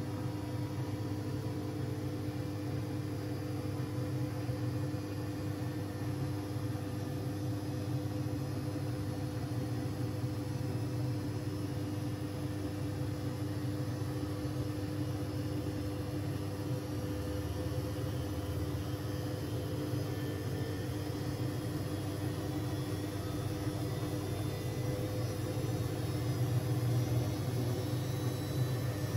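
Siemens Siwamat 6143 front-loading washing machine running during a boil wash: a steady motor hum over a low rumble, getting a little louder near the end.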